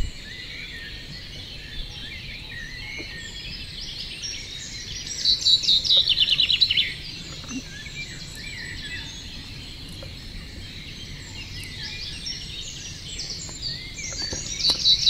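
Songbirds singing: a loud, rapid trilling phrase of repeated high notes about five seconds in, sung again near the end, over quieter scattered chirps.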